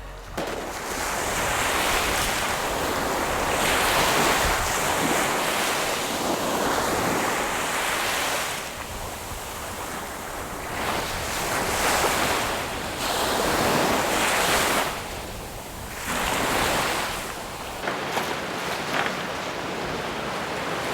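Sea waves washing in and drawing back, swelling and fading every few seconds, with wind buffeting the microphone.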